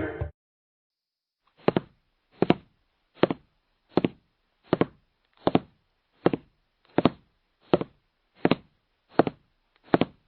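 A steady series of short knocks, about a dozen, evenly spaced at roughly one every three-quarters of a second, starting a little under two seconds in.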